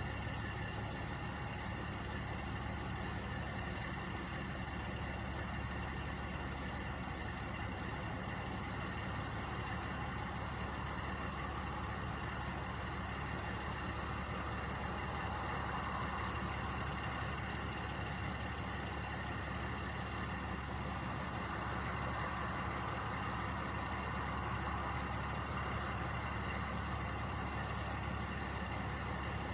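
Truck engines idling steadily, a constant hum with several steady tones and no change in speed.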